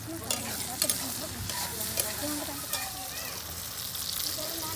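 Sliced onions and spices sizzling in hot oil in a metal wok while a metal spatula stirs them, with a few sharp clicks of the spatula against the pan in the first two seconds.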